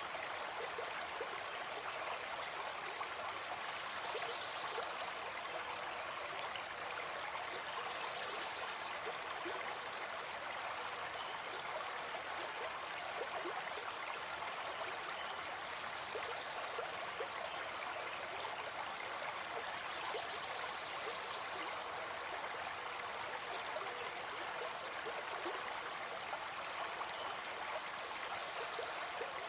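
Gentle forest stream flowing, a steady, even rush of water.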